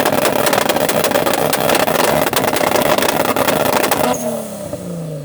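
Car engine revved up and held bouncing on the rev limiter, a rapid crackling stutter of the kind a 2-step launch control makes. About four seconds in it cuts off suddenly and the revs fall away.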